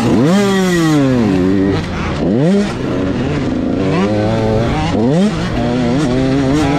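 Motocross dirt bike engine revving hard, its pitch climbing and dropping about five times as it runs through the throttle and gears.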